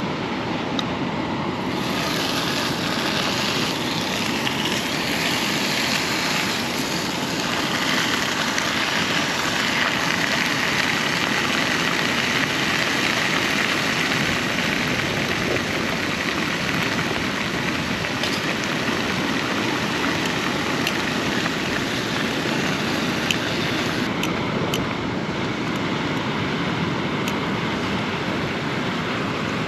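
Bacon sizzling in oil in a pan, the hiss coming in about two seconds in and easing near the end, over a steady rush of surf and wind.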